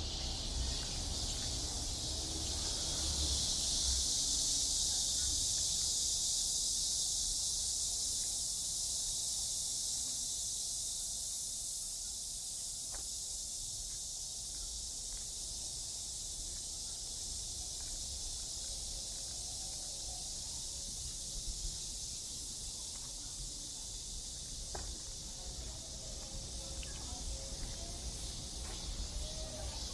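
A chorus of cicadas droning in a steady high hiss. It swells in the first few seconds and then slowly eases off.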